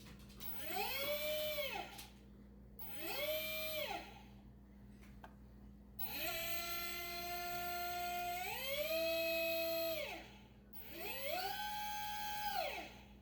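Dog whining in four long rising-and-falling tones, the longest about four seconds with a step up in pitch partway through; a steady low hum runs underneath.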